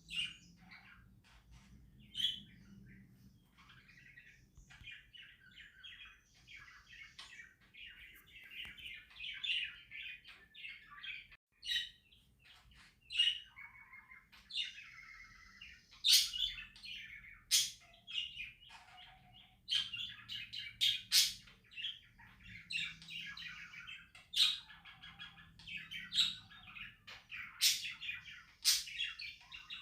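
Pet budgerigars chirping and warbling in a continuous chatter, with many sharp clicks scattered through it, busier and louder in the second half.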